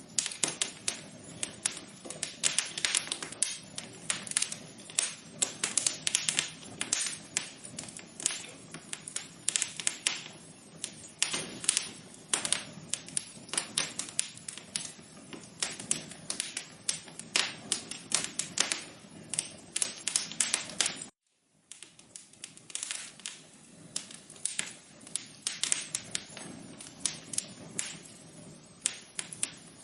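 Wood fire crackling, with dense irregular snaps and pops over a low hiss. The sound cuts out for a moment about two-thirds of the way through, then carries on.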